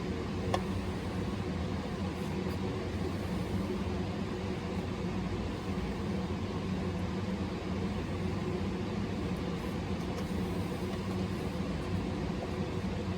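A steady mechanical hum with a single light click about half a second in.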